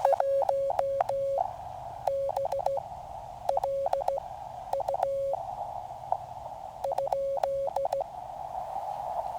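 Morse code keyed on a QCX mini QRP transceiver: a steady single-pitch sidetone sent in five short groups of dots and dashes, with narrow-filtered receiver hiss between the groups. It is a partial callsign sent back as a query.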